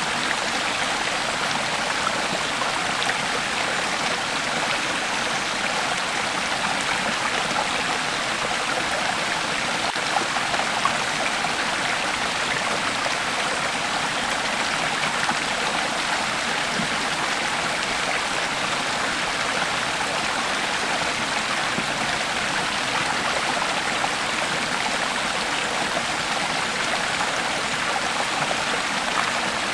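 Creek water flowing and babbling over stones in a steady, unbroken rush.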